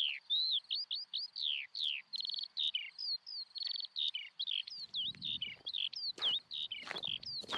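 Birdsong: a rapid run of short chirps sliding down in pitch, several a second, with a low rumble joining about five seconds in.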